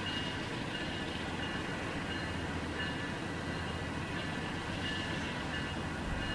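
Train approaching with a steady low rumble, while a railroad grade-crossing bell rings over it in an even, repeating pattern.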